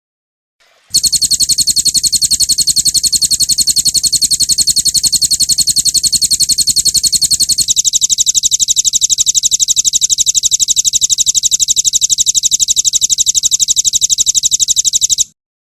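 Songbird's 'roll tembak' song: one long, unbroken run of very rapid, evenly repeated high notes, like a machine-gun trill, with a slight drop in pitch about halfway through. It begins about a second in and stops abruptly just before the end.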